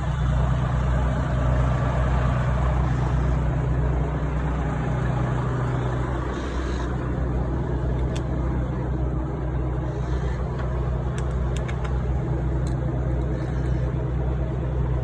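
Truck's diesel engine running with a steady low drone, heard from inside the cab.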